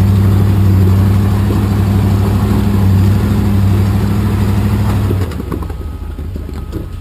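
Rock-crawler engine running loud at a steady pitch, then dropping off sharply about five seconds in to a quieter rumble.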